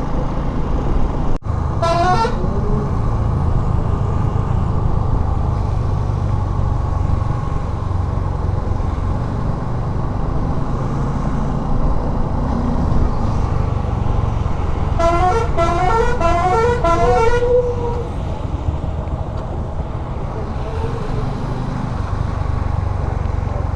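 Steady engine and wind rumble of a motorcycle ride on the road. A vehicle's musical horn toots briefly about two seconds in, then plays a quick run of stepped notes for about two seconds around the middle.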